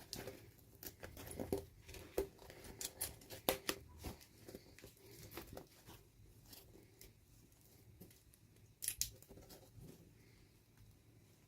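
Small clicks, taps and crinkles of toy packaging being handled and opened, coming in an irregular run of quiet little sounds with a louder cluster about nine seconds in.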